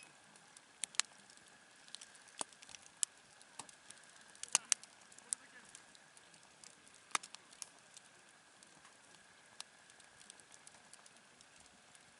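Campfire wood crackling, with irregular sharp pops and snaps, a few louder ones about two and a half, four and a half and seven seconds in.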